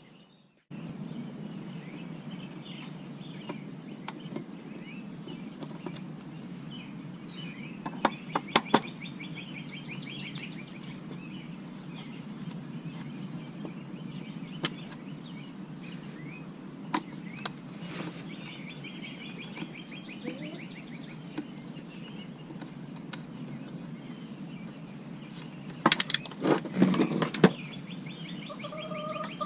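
Outdoor background with birds chirping faintly over a steady low hiss. There are a few sharp clicks about eight seconds in and again near seventeen seconds, and a cluster of louder clicks and knocks near the end.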